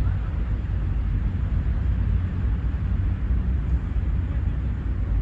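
Outdoor park ambience carried by a steady low rumble with a faint hiss above it, no distinct events.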